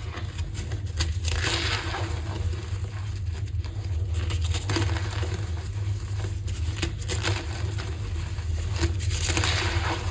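Block of gym chalk being crushed, a run of dry, crumbly crunches repeating every second or so.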